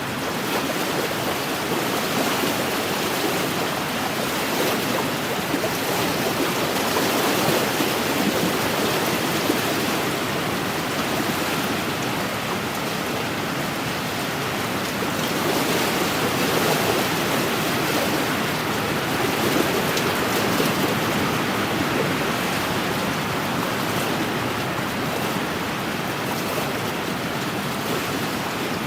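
Small wind-driven waves washing against an inland lakeshore, a steady splashing wash of water that swells a little now and then.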